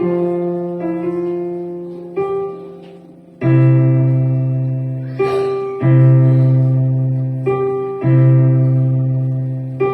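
Piano played slowly: a simple melody over held low notes, each note struck and then fading. The sound dips briefly about three seconds in before a louder chord comes in.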